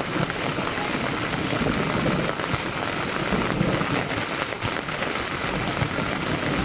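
Heavy rain falling and drumming on the ground, a steady even hiss.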